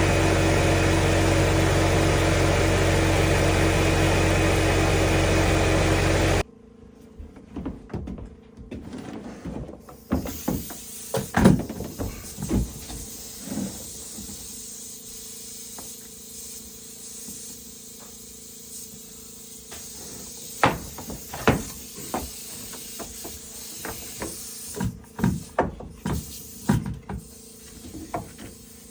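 A loud, steady motor-driven machine runs and cuts off abruptly about six seconds in. Irregular knocks and thumps follow, like wood being struck or handled during carpentry.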